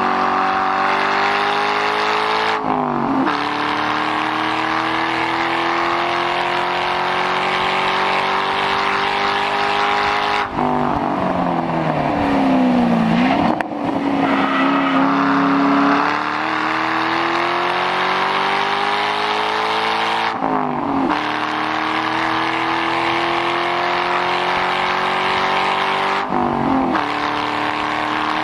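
2006 Ford Mustang GT's 4.6-litre V8 through a muffler-deleted exhaust, driven hard on a race track. The engine note climbs steadily in long pulls through the gears, with a sudden drop in pitch at each upshift. Midway the revs fall and come back up as the car slows, then hold for a moment before it pulls again.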